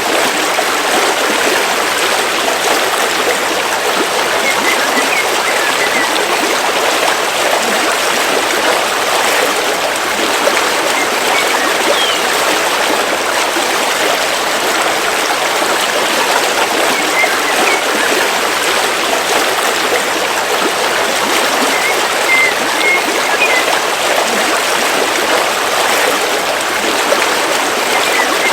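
River water flowing over rocks in a steady, even rush. A few faint, short bird chirps come through it now and then.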